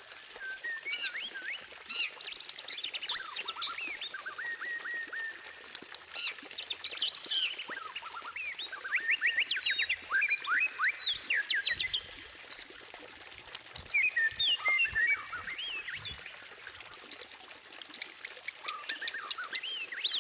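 White-rumped shama (murai batu) singing: rapid, varied whistled phrases, sweeps and trills, coming in bursts with short pauses between them.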